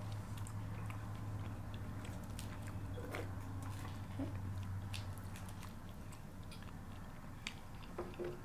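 Close-up chewing and biting, with short sharp mouth clicks scattered throughout, over a steady low hum.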